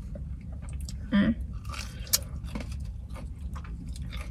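Close-up chewing and mouth sounds of people eating fast food, with small wet clicks and crackles. A short hum of a voice comes about a second in and a sharp click about two seconds in, over a low steady rumble inside a car.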